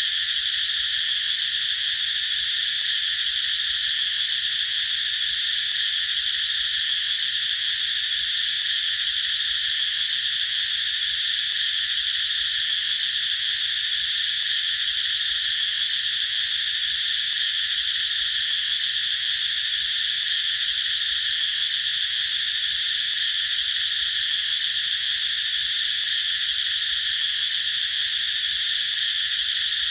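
A chorus of cicadas singing in a steady, unbroken high-pitched drone.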